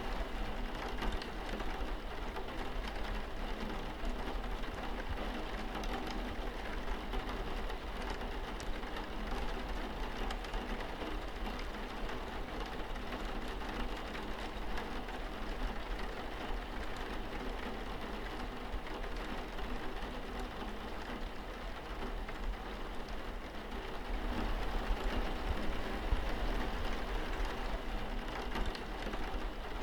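Steady rain falling on a window, an even hiss of drops over a constant low rumble, getting slightly louder about twenty-four seconds in.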